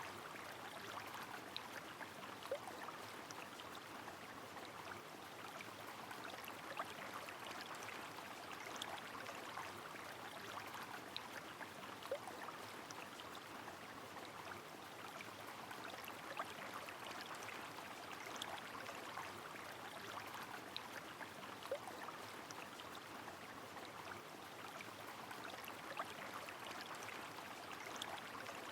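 Steady rush of a river under falling rain, with a dense patter of small drops and now and then a single louder drip every few seconds.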